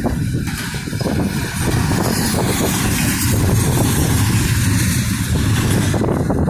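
Steady low rushing noise of wind and a car travelling at highway speed, about 70 mph, with the loudness wavering slightly.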